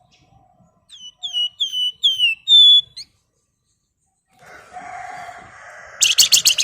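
Flamboyan songbird singing: a run of about six sharp, downslurred whistles, then a harsher buzzy phrase, and a fast rattling chatter near the end.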